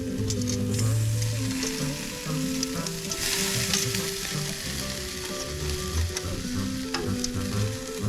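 Food sizzling and frying over the fire, the hiss swelling louder for a moment about three seconds in, with crackling ticks. A Spanish-language song plays underneath, its low notes held and shifting.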